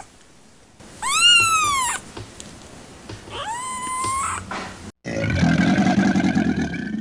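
A house cat meowing twice, smooth rising-and-falling calls, then a sudden switch to a big cat giving a low, rasping growl for about two seconds.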